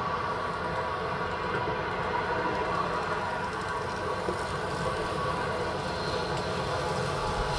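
A train running steadily, a continuous even hum and rumble with no distinct clicks.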